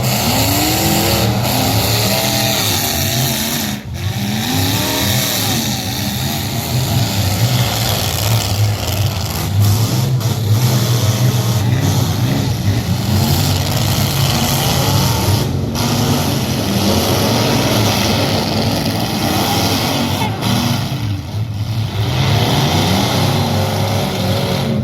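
Truck engines revving over and over, the pitch climbing and falling every second or two above a steady low engine drone.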